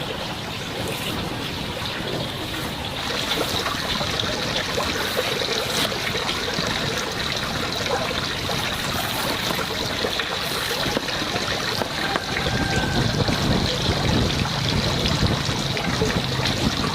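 Water running and trickling, getting louder about twelve seconds in.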